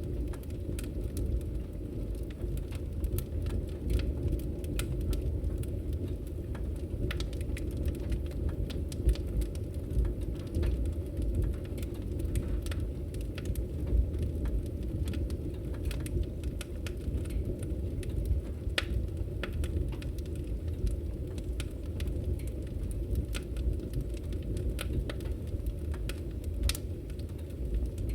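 Wood fire burning steadily, a low rumble with frequent sharp crackles and pops from the burning logs.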